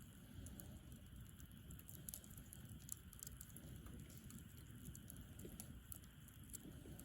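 Campfire wood burning quietly, with scattered small crackles and pops over a low rumble.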